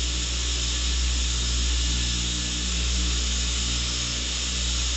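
Steady electric motor hum with a hiss, running unchanged throughout.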